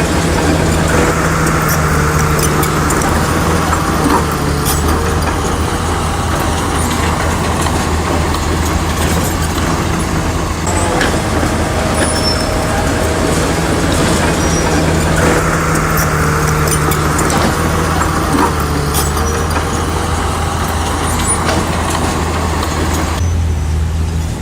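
Bulldozer's diesel engine running steadily under working load, its note strengthening and easing every few seconds, with scattered sharp metallic clanks.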